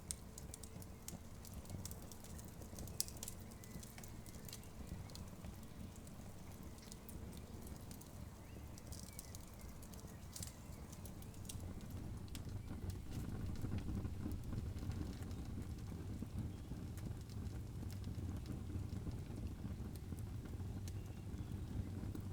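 Campfire crackling, with many sharp pops and snaps, most of them in the first half, over a low steady noise that gets louder about halfway through.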